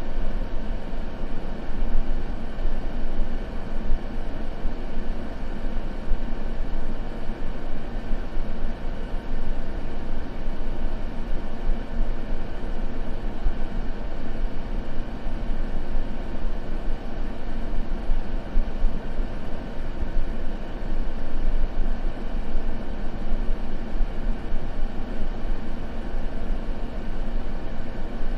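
Steady white noise, a deep, even hiss weighted toward the low end, with no crackles or breaks.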